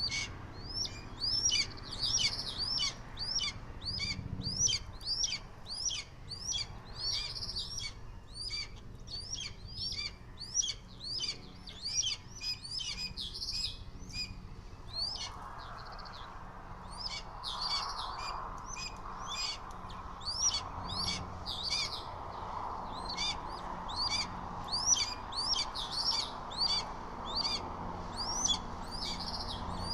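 A bird chirping over and over, short rising chirps about twice a second without a break. A steady rushing noise joins about halfway through.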